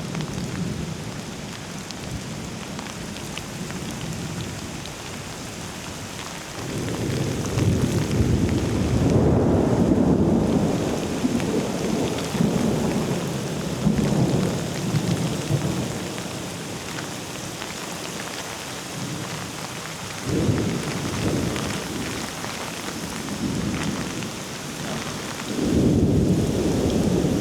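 Steady rain falling on surfaces, with thunder rumbling in long rolls: the loudest comes about seven to eleven seconds in, another around twenty seconds, and a third starts near the end.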